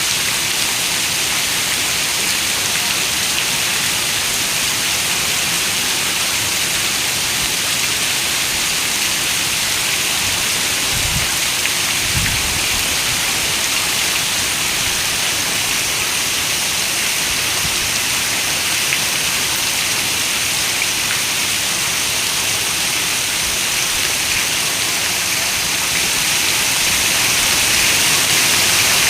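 Heavy rain falling steadily, a dense even hiss. About eleven seconds in there are two brief low thuds, and the rain swells slightly near the end.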